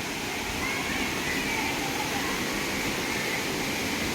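Steady rushing of a waterfall in full flow, an even roar of falling water with no breaks.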